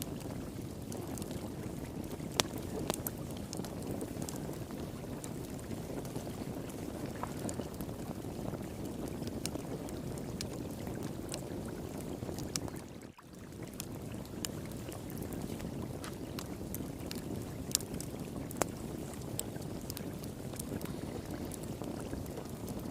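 Wood fire pit crackling, with scattered sharp pops, over the steady rush of flowing water. The sound drops out for a moment about halfway through.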